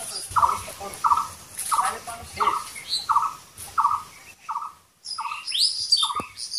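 Birds calling: one repeats a short mid-pitched note evenly, about every 0.6 s, while others add varied high chirps and rising whistles, busiest near the end.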